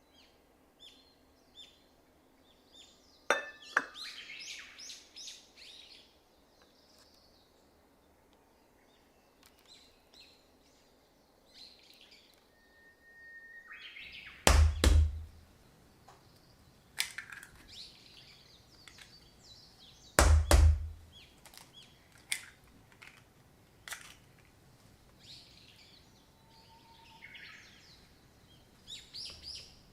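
Kitchen utensil and cookware handling: scattered clinks, taps and short high-pitched scrapes, with two heavy knocks about fourteen and twenty seconds in.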